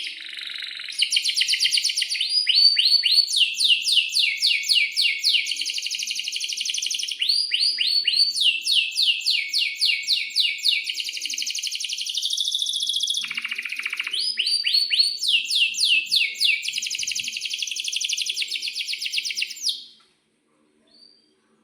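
Domestic canary singing a long, continuous song of rapid repeated sweeping notes and rolling trills, high-pitched, stopping near the end.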